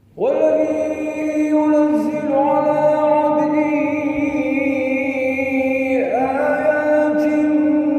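Male Quran reciter chanting in the melodic tajweed style, holding long drawn-out vowel notes. The voice enters suddenly at the start, pauses briefly about six seconds in, then takes up a new held phrase.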